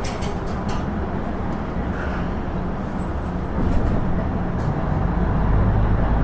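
Inside a KiHa 110-series diesel railcar: steady running noise with a few sharp clicks in the first second, then the diesel engine's low drone grows louder from about four seconds in as it powers up.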